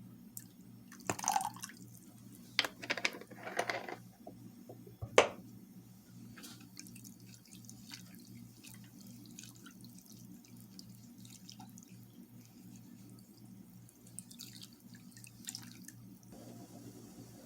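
Water splashing and dripping in a kitchen, loudest in the first few seconds, with one sharp knock about five seconds in and then only faint small clinks and drips.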